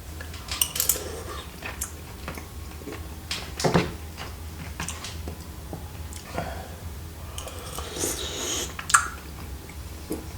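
Eating rice cakes: cutlery clicking a few times against a dish, with chewing and mouth noises in between.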